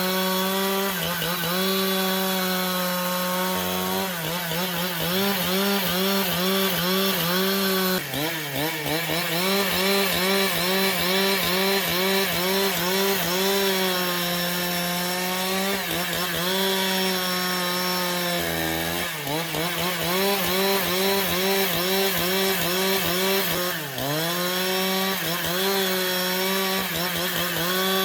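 Engine-driven saw cutting through timber, its motor running steadily under load with the pitch wavering and sagging briefly a few times as the blade bites.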